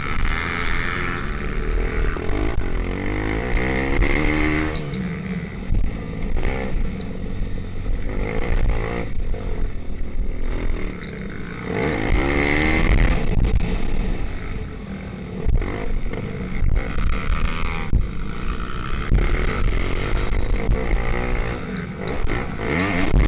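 Small single-cylinder pit bike engines racing, with engine pitch rising and falling as the bikes accelerate and shift; two clear rising sweeps, a few seconds in and about halfway through.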